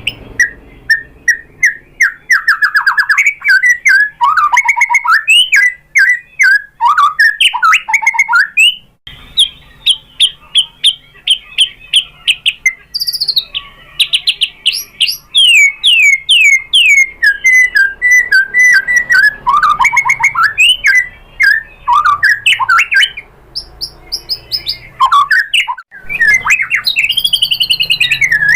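White-rumped shama singing a long, varied song of fast repeated notes, trills and sweeping whistles, packed with mimicked phrases of other birds. The song breaks off abruptly twice and starts again.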